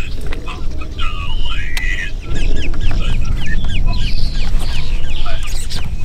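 Wild birds calling in a rapid series of short, falling notes, several a second, over a steady low rumble.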